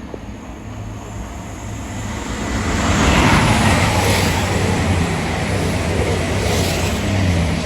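Diesel multiple unit passing at speed: engine note and wheel-on-rail noise build up over the first few seconds, stay loud, and the engine tone drops in pitch near the end as it goes by.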